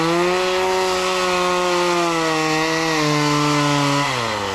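Chainsaw running at full throttle as it cuts into the tree trunk, its pitch sagging slightly under load, then dropping about four seconds in as the throttle is released. The cut is made to take the pressure off a second chainsaw whose bar is pinched in the trunk.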